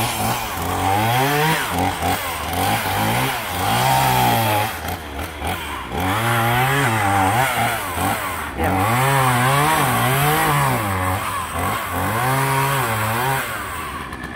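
Two-stroke chainsaw cutting into a tree trunk. Its engine pitch rises and sags again and again as the chain loads up in the cut, with short let-offs between passes, and it drops off near the end.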